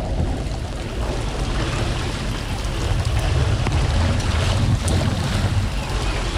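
Water rushing steadily, as floodwater drains through a cleared culvert, with a heavy low rumble under the hiss.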